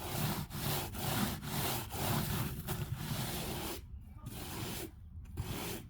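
A hand tool rubbing back and forth over a freshly patched stucco wall, smoothing the wet stucco in quick rhythmic strokes, about two or three a second. The strokes thin out and quieten about four seconds in.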